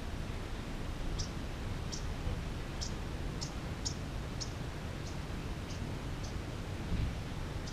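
A small bird chirping: about ten short, high chirps at roughly two a second, fading near the end, over a steady low rumble and hiss of background noise.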